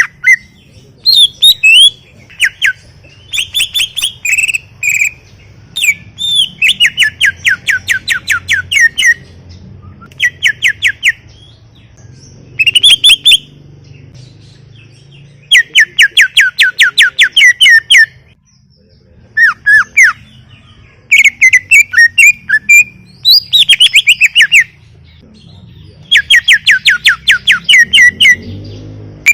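Green leafbird (cucak ijo) singing continuously and loudly: phrases of rapid trilled notes, each lasting one to three seconds, broken by short pauses and mixed with sharper, higher calls.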